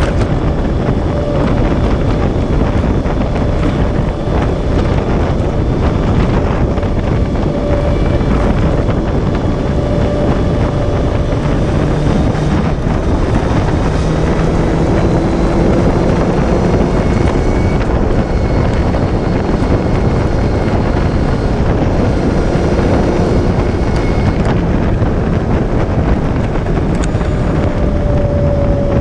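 Heavy wind rush on the camera microphone of a moving Yamaha Fazer 600 motorcycle. The inline-four engine's note runs underneath, its pitch drifting gently up and down.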